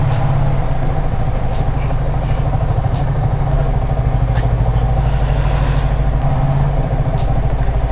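Motorcycle engine running steadily at low revs, an even low putter, as the bike is moved into parking.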